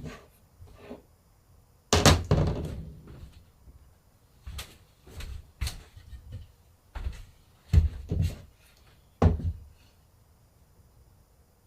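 Knocks and bumps of silkscreen plate-making equipment being handled: one loud thud about two seconds in, then a string of sharper knocks and clacks at uneven intervals.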